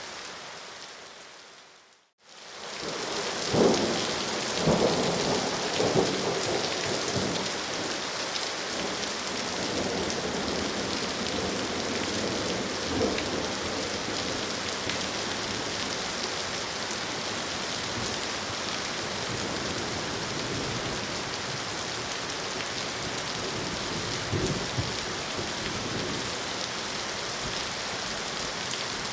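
Steady heavy rain that fades almost to silence about two seconds in, then swells back. Several thunder rumbles follow a few seconds later, and one more comes near the end.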